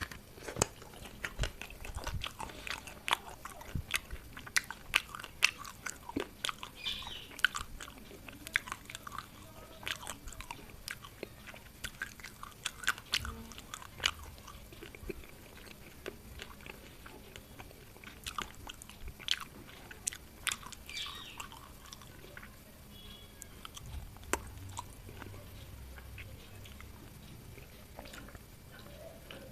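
Close-up chewing and crunching of someone eating a fish head in curry, with many short sharp clicks and crackles.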